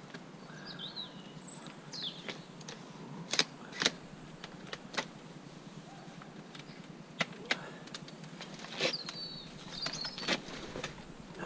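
Scrap metal being handled and taken apart: scattered sharp metallic clinks and knocks, with a few short high squeaks.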